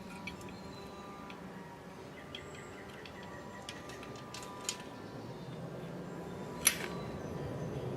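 Faint outdoor ambience with a bird calling, broken by a few sharp clicks, the loudest about two-thirds of the way through.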